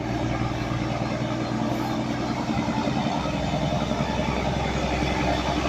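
A train's diesel engine running steadily at idle, with a low, even pulsing.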